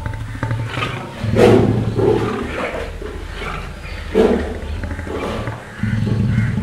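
Lion growling in several short, low bursts.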